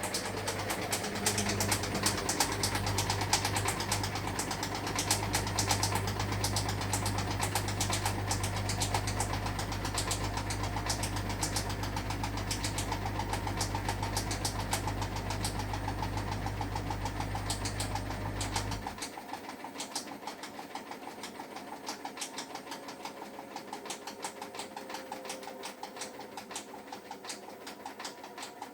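Hotpoint washing machine on its final spin, the drum motor humming steadily with a rapid knocking and ticking throughout, which the owner puts down to a trouser drawstring catching inside the drum. About two-thirds of the way through the hum cuts off and the drum winds down, the ticking carrying on more sparsely over a faint falling whine.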